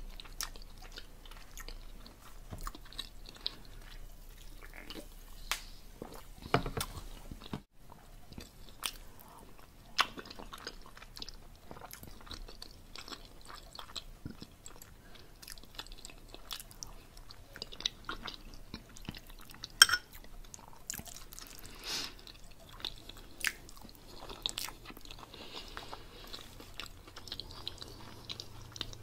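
Close-up chewing and lip smacking of a person eating pork roast and black-eyed peas, with many small mouth clicks and one sharp click about twenty seconds in.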